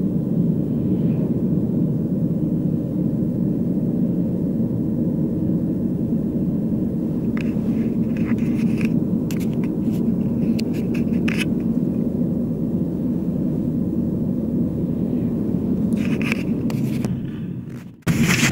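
Steady low road rumble inside a moving vehicle, with a few brief rattles or scrapes about halfway through and again near the end. The sound dips out sharply for a moment just before the end.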